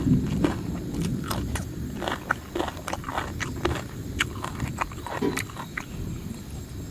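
Close-up eating: chewing crunchy food, with irregular crisp crunches and mouth sounds.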